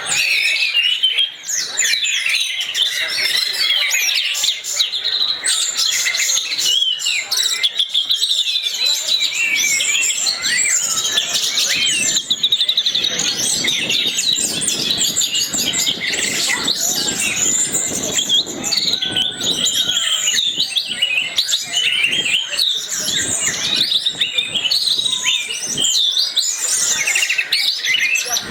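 Orange-headed thrush (anis merah) singing a long, rapid, unbroken run of varied chirps and whistles.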